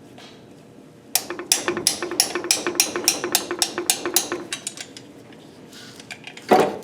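A socket ratchet clicking in a fast, even rhythm, about five clicks a second, for three or four seconds as a free-turning exhaust manifold nut is backed off. A loud metal clank comes near the end.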